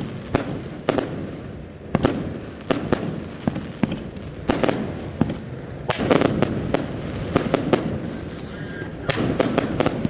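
Fireworks display going off: volleys of sharp bangs and crackles in dense clusters every second or two, with a low rumbling echo between them.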